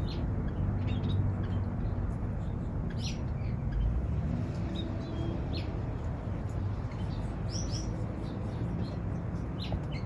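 Small aviary birds giving short, high chirps, scattered irregularly, over a steady low hum.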